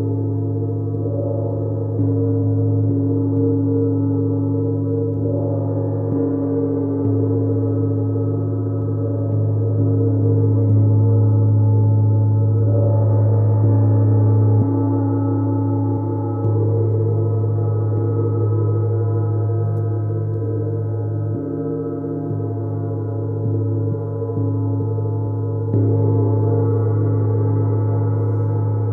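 Chinese wind gong and Neptune gong played together: a sustained wash of many overlapping ringing tones over a deep steady hum. It swells again with a new stroke every few seconds.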